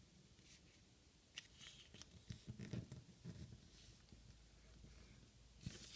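Faint rustling and creasing of sheets of paper being folded in half, a few soft scrapes scattered through the quiet.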